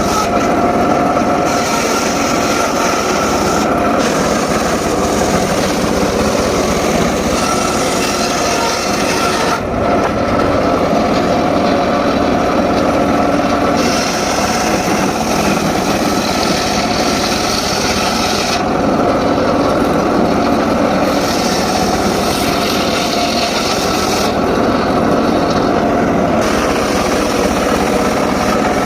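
Homemade circular saw running and cutting mahogany: a continuous loud whine with the high cutting noise changing every few seconds as the wood feeds through the blade.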